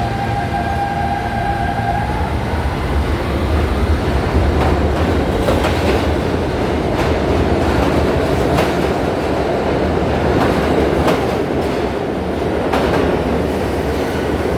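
New York City subway train running through an underground station: a steady rumble with wheels clacking over rail joints in an irregular series of sharp clicks. A thin high whine fades out about two seconds in.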